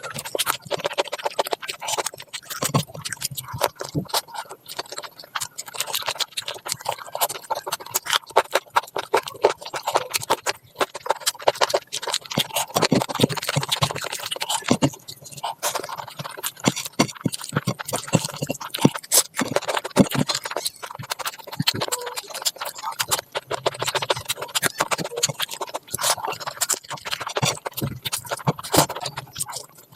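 Close-miked eating sounds: wet chewing and mouth smacking, a dense, irregular run of clicks.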